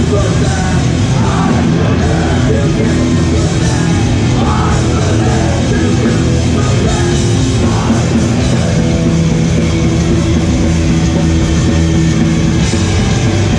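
Hardcore punk band playing live: loud distorted guitars, bass and drums, with shouted vocals over roughly the first half.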